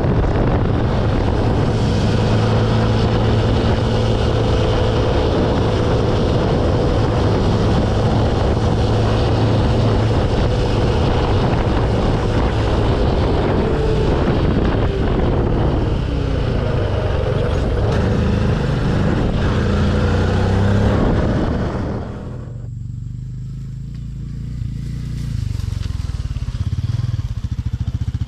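Yamaha PG-1's small single-cylinder engine running under way, with wind rushing over the microphone and the engine pitch sliding up and down in the middle. About three quarters through, the wind noise suddenly falls away as the bike slows, leaving the engine running low, which grows louder again near the end.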